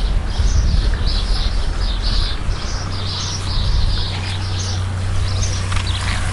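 A bird singing a long run of short high notes, about two to three a second, over a steady low rumble.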